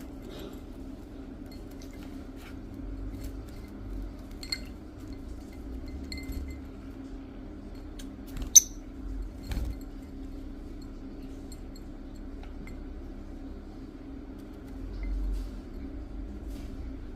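A small bird bathing in a drinking glass, knocking against the glass in scattered light clinks, with one sharp, loud clink about halfway through. A steady low hum runs underneath.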